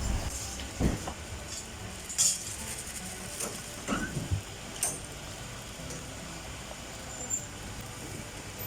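Scattered knocks and clinks of cups and utensils being handled while drinks are made, about half a dozen in all, over a steady low background noise.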